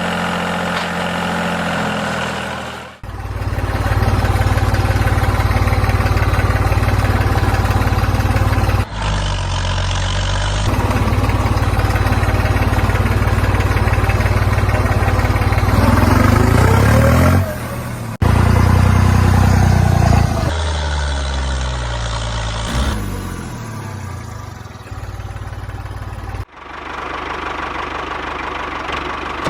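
Miniature tractor's engine running steadily, cutting off abruptly several times, with its pitch rising and falling briefly around the middle.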